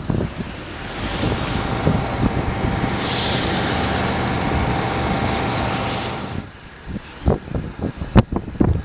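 A motor vehicle driving past close by, its engine and road noise building over a few seconds, holding, then dropping away sharply about six seconds in. Scattered knocks and clicks follow near the end.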